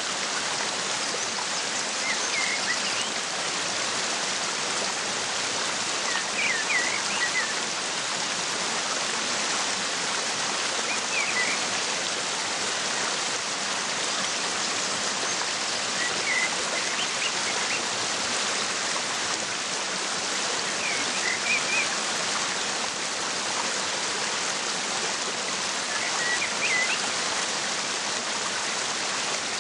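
Waterfall rushing as a steady, even hiss, with short bird chirps every few seconds over it.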